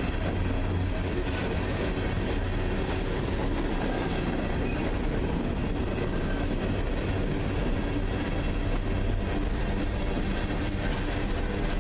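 Freight train cars rolling past on the rails, a steady noise of wheels on track that does not let up.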